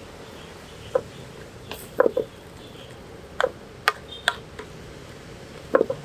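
Kitchen utensils clinking and knocking, about seven short sharp hits at irregular times, some in quick pairs, over a steady background hiss.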